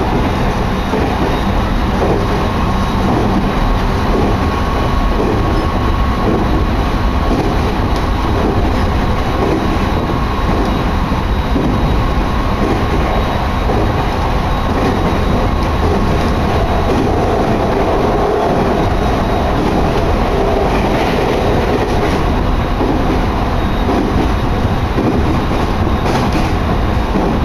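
Sōbu Line electric train running steadily at speed, heard from inside the carriage: a loud, even running noise, with wind blowing in through an open window.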